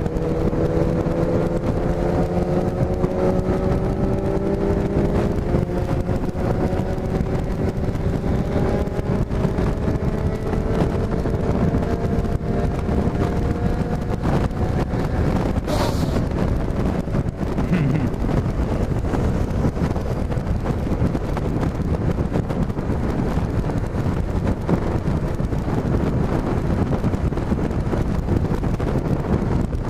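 Yamaha XJ6 F's inline-four engine, on its stock exhaust with a drilled sport hole, pulling in gear with its pitch rising slowly over the first dozen seconds, under heavy wind rush on the microphone at riding speed. The engine then fades under the wind, and there is a short hiss about halfway through.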